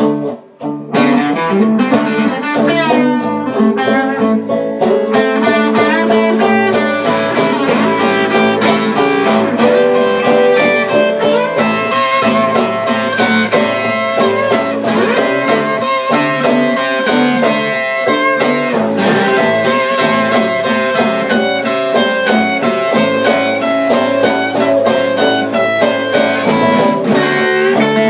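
Live blues band playing an instrumental passage led by guitar, with no singing. The sound drops out briefly just after the start.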